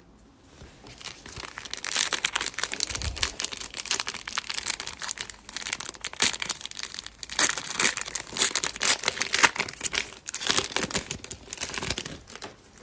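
A foil wrapper of a baseball card pack being torn open and crumpled, a dense crinkling and crackling that comes in about a second in and goes on in bursts until near the end.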